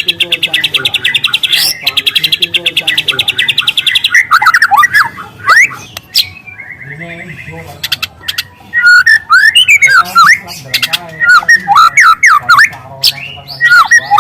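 Juvenile white-rumped shama (murai batu) singing loudly. It opens with a fast, even trill for about four seconds, then breaks into varied whistled phrases of sharp notes sweeping up and down, with another brief trill partway through.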